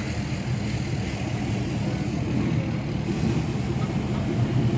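A vehicle engine idling steadily nearby: a low, even rumble.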